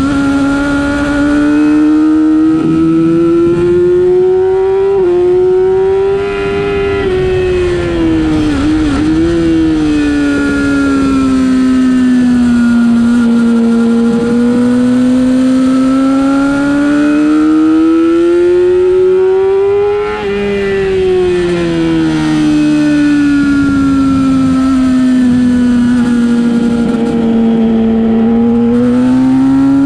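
Race motorcycle engine heard from on board at racing speed, its pitch swelling and sagging with the throttle, with brief breaks in the note around 5, 9 and 20 seconds, as at gear changes.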